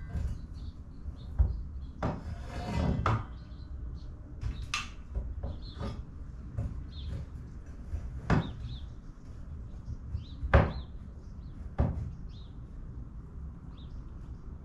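Scattered knocks and clunks of hand work on a door, with a scraping stretch about two seconds in and a loud knock near the middle.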